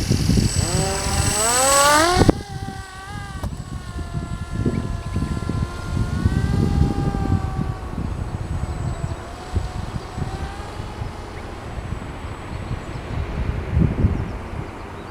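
Small motor of a Magnus-effect model aircraft spinning its rotors with a whine that climbs steeply in pitch over the first two seconds, under loud hiss. The hiss cuts off suddenly, and the whine goes on and sags slowly lower in pitch. Gusty wind rumble on the microphone runs throughout.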